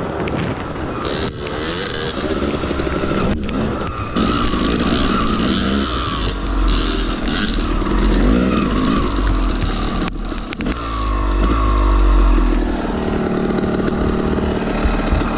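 Two-stroke dirt bike engine running under varying throttle while riding, its pitch rising and falling as the rider works the throttle.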